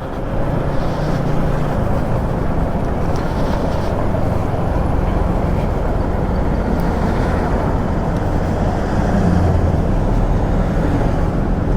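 Motorcycle under way: steady engine and road noise holding an even level.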